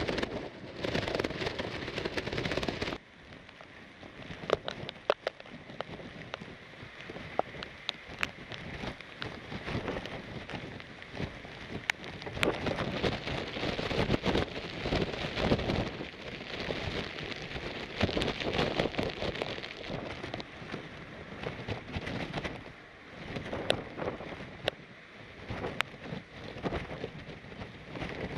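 Typhoon wind and rain: a rushing haze of wind-driven rain with many scattered sharp taps of drops striking. It is loud and full for the first three seconds, then drops abruptly to a lower, gusting rush.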